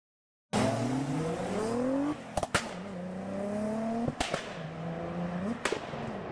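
Car engine accelerating hard through the gears: the pitch climbs, then drops at each of three upshifts, with sharp cracks around the shifts. It fades out near the end.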